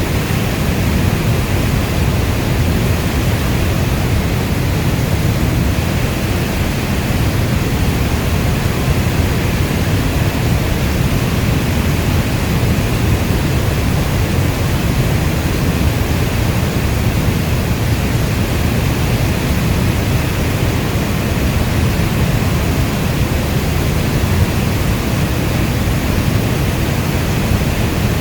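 Steady heavy rain as a dense, unbroken noise weighted toward a deep low rumble, with no separate drop hits or thunder.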